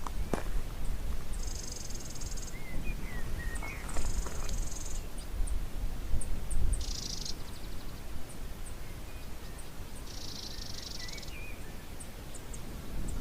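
Forest birds singing: four buzzy high-pitched trills, each about a second long, with a few short lower chirps and faint high ticks between them, over a steady low rumble.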